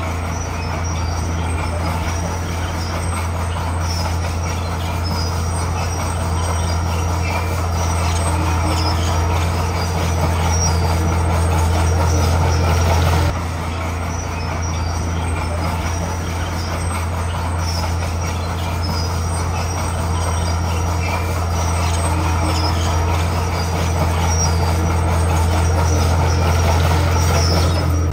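Heavy diesel earthmoving machinery running steadily, a loud low engine drone with clattering noise above it. The level builds, drops suddenly about halfway through, then builds again.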